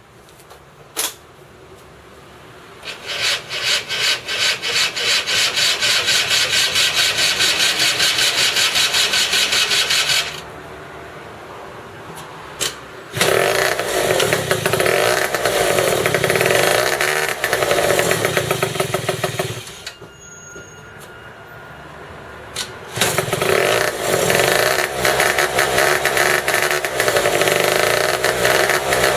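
Buggy engine running, opened up in three long stretches of throttle with quieter idling between; each time the revs climb to the same level and stay flat instead of rising further. The engine starts but will not rev up beyond this point.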